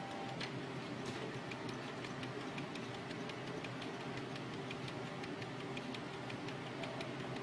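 Steady mechanical ticking, several sharp ticks a second, over a low steady hum.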